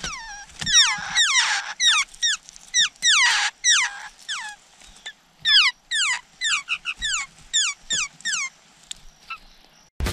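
Laughingthrush nestlings begging at the nest as a parent feeds them: a rapid series of clear, downward-sliding calls in two bouts with a short lull in the middle, stopping about a second and a half before the end.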